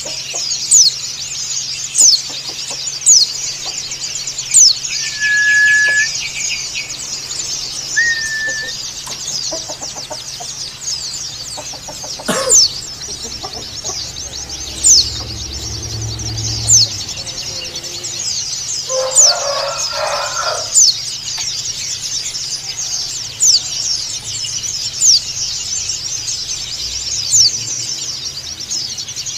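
Pleci (white-eye) calls in the dakun Bali style: a dense, continuous high-pitched twittering chatter, cut by sharp, loud down-slurred whistles about every one to two seconds. A lower, longer call breaks in once about two-thirds of the way through.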